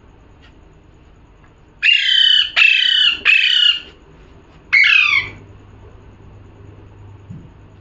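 A parrot squawking: three harsh calls in quick succession about two seconds in, then a fourth about a second later.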